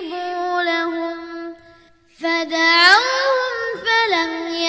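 A child reciting the Quran in a melodic tajweed style: a long held note, a short breath pause about two seconds in, then a rising, ornamented melodic run that settles into another held note.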